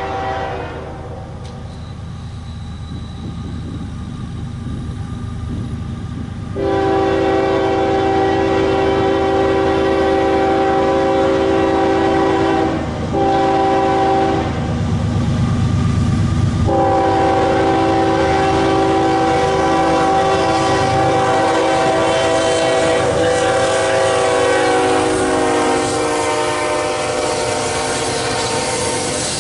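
Diesel freight locomotive's multi-note air horn sounding in long blasts, with a short break about halfway and a longer gap after it, over the low rumble of the train. Near the end the horn's chord drops in pitch as the locomotive passes.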